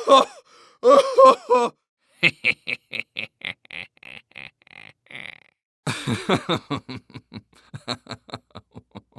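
A person's non-speech vocal sounds: two short voiced grunts, then two runs of quick breathy pulses, about four a second, each trailing off.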